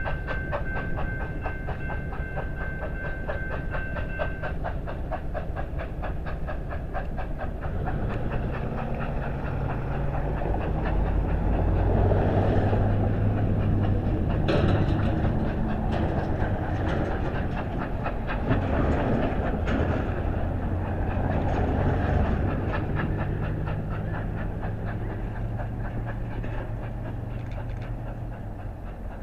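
Grand Canyon Railway steam-hauled passenger train rolling past, its wheels clicking over the rail joints in a fast, even rhythm, with a rumble that swells in the middle and eases toward the end. A steady high tone stops about four seconds in, and there is a single sharp click about halfway through.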